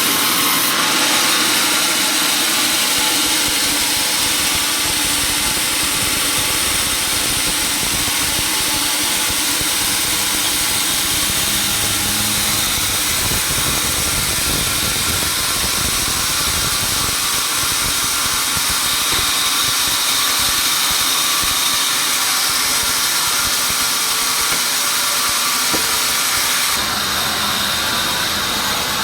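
Sawmill machinery running steadily: a loud, continuous motor-driven saw with a high whine over dense noise.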